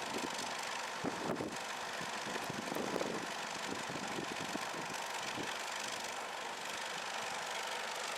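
A farm tractor engine running steadily at low speed, with irregular rattles and knocks, while working a 1920s John Deere Hoover potato planter.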